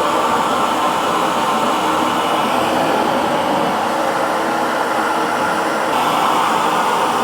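Electric hair dryer blowing with a steady whooshing hum, its tone shifting slightly about six seconds in.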